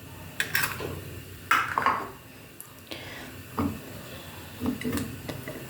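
Kitchen dishes and utensils knocking and clinking several times, at irregular intervals.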